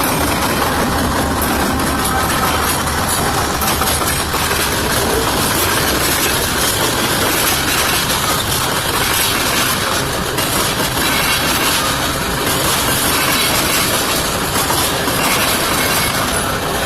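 Norfolk Southern freight train passing at speed: the wheels rolling on the rails make a steady, loud rush.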